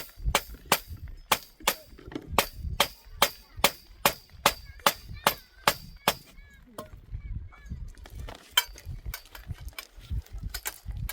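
Hammer driving a tent stake: a steady run of sharp blows, about two or three a second, each with a short metallic ring, stopping about six seconds in, followed by a few scattered blows near the end.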